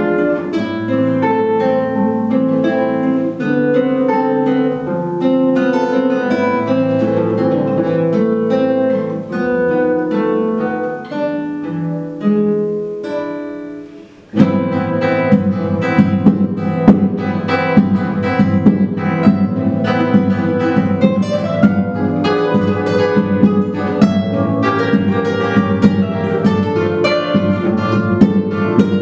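Two classical guitars playing a duet. The first half is melodic plucked notes; about 14 s in the music fades briefly, then resumes with dense, rapid strumming in flamenco style.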